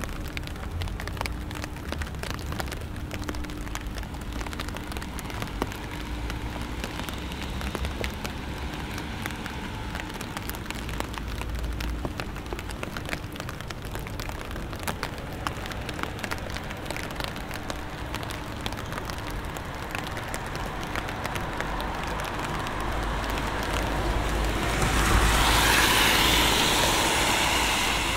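Steady rain falling on a city street, with many individual drops ticking sharply close by. Near the end a louder wash of tyre hiss swells up and fades as a car passes on the wet road.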